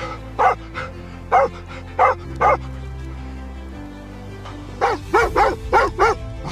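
A dog barking: four single barks spaced about half a second apart, then a quick run of five barks near the end, over background music.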